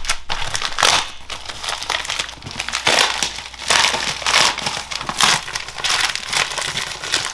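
Packaging being unwrapped by hand, crinkling and rustling in irregular handfuls.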